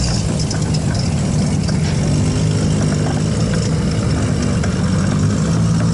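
Car engine idling steadily: a low, even drone with no revs.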